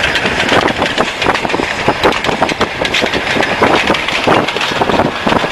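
Railway snow plow train pushing through deep snow: a loud, dense rushing noise with engine sound beneath it and many irregular sharp cracks and thumps.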